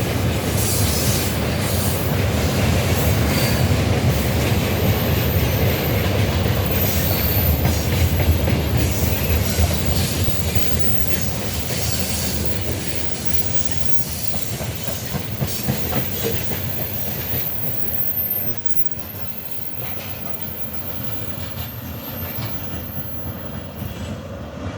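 Freight train of gondola wagons rolling past, wheels clicking over rail joints over a steady low rumble, with a thin high wheel squeal. The noise drops sharply about three-quarters of the way through.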